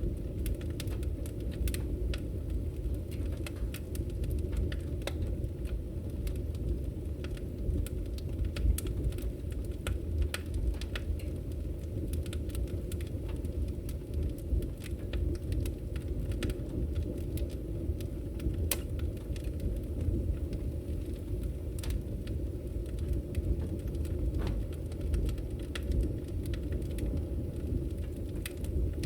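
Firewood burning with a steady low rumble of flames and scattered sharp crackles and pops throughout.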